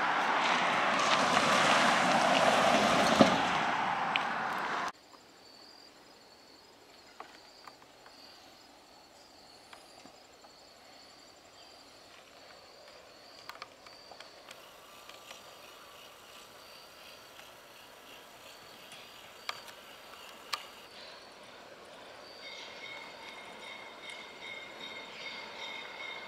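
Train noise, loud and even, which cuts off abruptly about five seconds in. Then quiet outdoor background, with an approaching train slowly growing louder near the end, joined by a faint steady high squeal.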